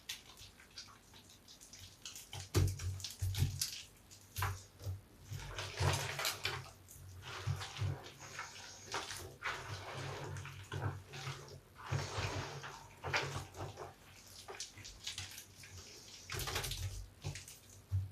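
A large soapy bath sponge being lathered with soap scraps and squeezed, giving wet squelching and squishing in irregular bursts.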